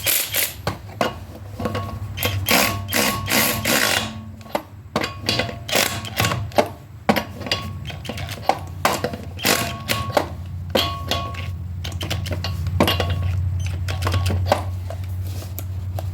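Hand ratchet wrench clicking in quick runs of sharp ticks as it spins nuts down, with a few knocks between runs. A steady low hum sits underneath, growing louder near the end.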